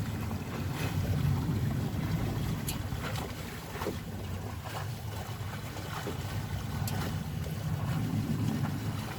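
Wind buffeting the microphone in a steady low rumble over the wash of water around a sailboat, with a few faint knocks.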